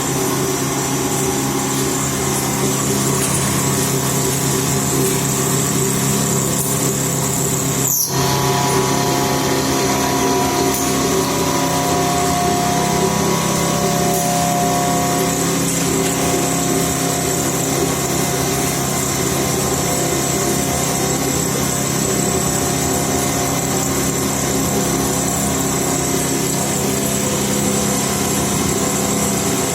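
CNC milling machine running steadily, its spindle and cutting giving a continuous whine made of several steady tones, with a momentary break about eight seconds in.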